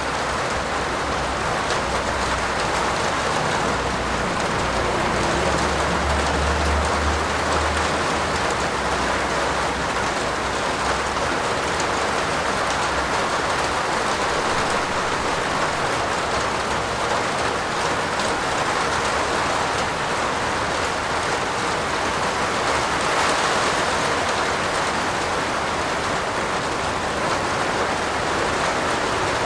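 Steady heavy rain falling on a roof. A low rumble runs under it for the first several seconds.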